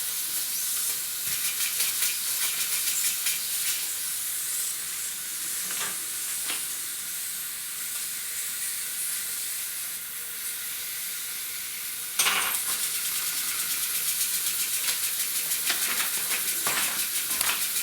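Small model steam engine running, its steam hissing steadily with rapid fine puffs. The hiss steps up suddenly and grows louder about twelve seconds in.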